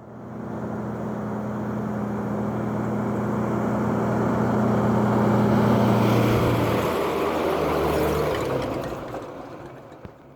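An engine-driven vehicle passing by: its steady engine note fades in and grows louder, drops in pitch about seven seconds in as it goes past, then fades away.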